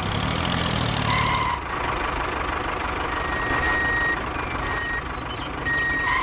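Steady machine noise, with short high beeping tones: one about a second in, several from about halfway, and one at the end.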